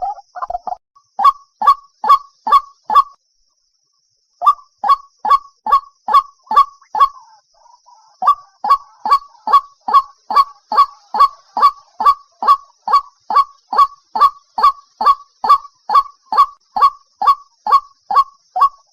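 White-breasted waterhen calling: a monotonous series of short, loud honking notes at about three a second, breaking off twice briefly before carrying on.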